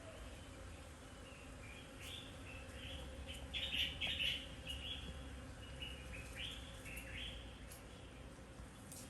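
Birds chirping: a run of short, separate chirps, loudest about four seconds in, over faint steady outdoor background noise.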